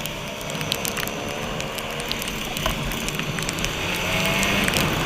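Rain falling, with many scattered sharp drop hits over a steady patter and a low hum underneath.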